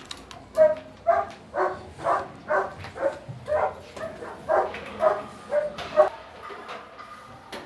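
A dog barking over and over, about two barks a second, for some six seconds.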